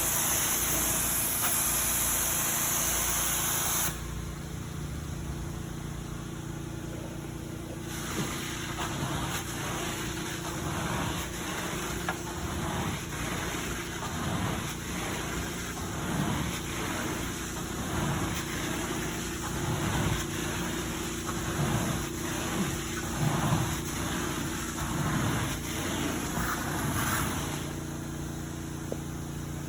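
Carpet-cleaning machine running with a steady hum, a loud hiss for the first few seconds that then cuts off. From about eight seconds in, short strokes repeat roughly once a second, like a tool being worked back and forth across carpet.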